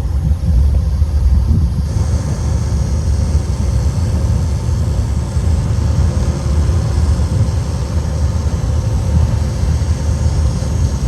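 Steady low rumble of a moving vehicle, with a faint high whine coming in about two seconds in.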